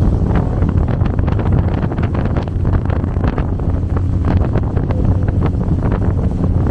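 Wind buffeting the microphone over the steady drone of a small motorboat's engine running, with frequent short irregular knocks.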